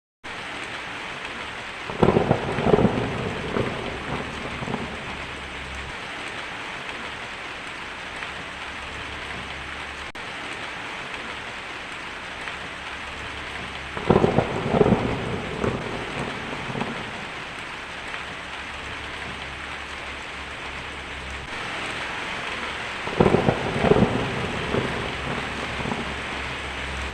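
Steady rain with three claps of thunder, about 2 seconds in, about 14 seconds in and about 23 seconds in, each a sudden loud crack that rumbles away over a few seconds.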